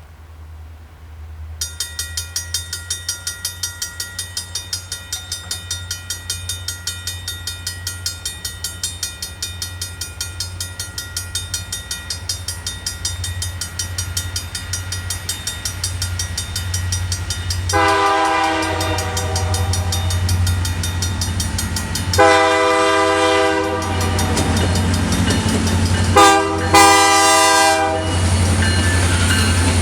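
Railroad crossing warning bell starts dinging rapidly as a train approaches, over a deep rumble that grows louder. Near the end a locomotive horn sounds the grade-crossing signal: two long blasts, one short, one long.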